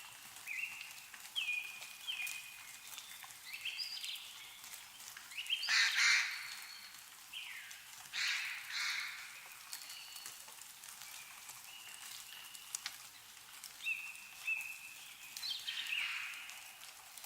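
Wild birds calling: short, repeated whistled notes, some dropping slightly in pitch, mixed with three louder, harsher, raspy calls. Faint scattered ticks sit under them, fitting meltwater dripping from snowy trees.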